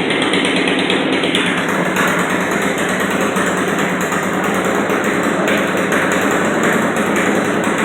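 Modified garden pulling tractor engine running hard, its exhaust making a steady, fast hammering beat.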